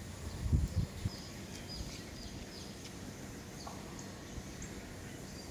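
Small birds chirping: short high chirps, one after another, over faint outdoor background noise. A brief low thump about half a second in.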